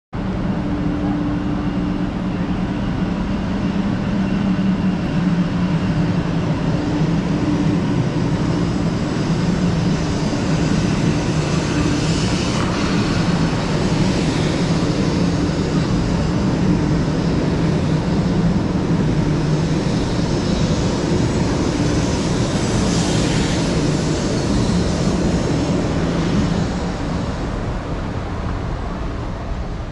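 500 series Shinkansen electric train pulling out of the station and running past at close range: a steady low hum under a rushing noise that swells as the cars go by, fading near the end as the train draws away.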